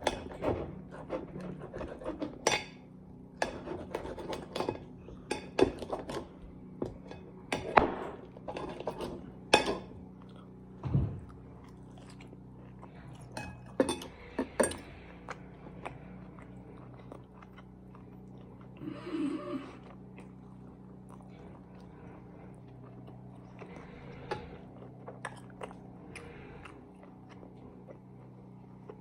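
Knife and fork clinking and scraping against a plate while a steak is cut, with chewing. The clinks come thick and fast in the first half and thin out later, over a steady low hum.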